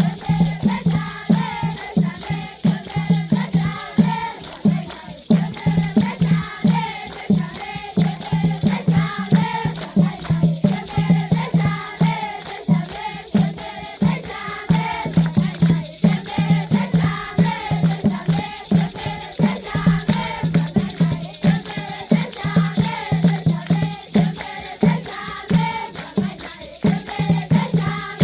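Traditional dance music: a group of children singing in chorus over a fast, steady low drumbeat, with rattles shaking continuously.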